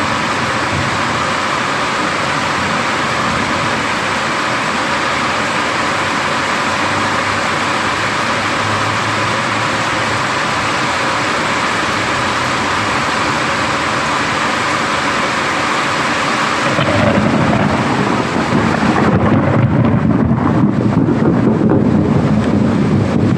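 Heavy rain hissing steadily in a thunderstorm. About 17 seconds in, a loud, deep thunder rumble starts and rolls on.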